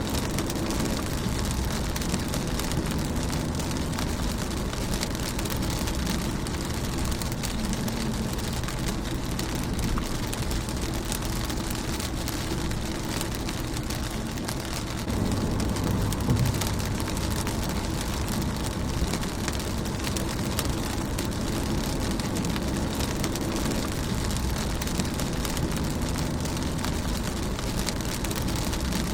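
Rain falling on a car windshield: a steady patter with many separate drop taps, over a low rumble that gets a little louder about halfway through.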